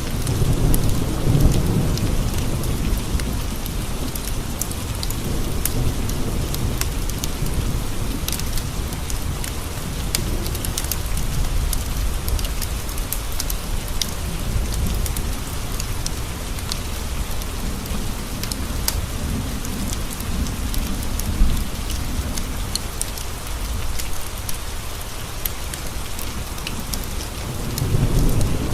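Steady rain tapping on windowpanes, with low rolling thunder that swells about a second in and again near the end. Scattered sharp ticks run over it.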